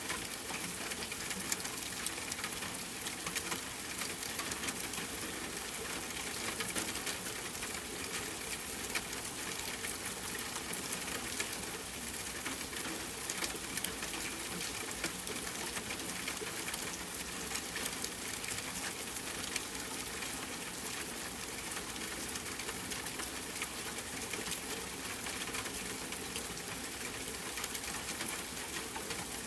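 Steady rain, a dense patter of many drops.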